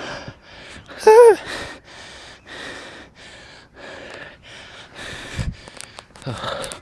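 A man breathing hard and fast, panting from wading through deep snow. About a second in there is a short voiced groan, then a steady run of about two breaths a second.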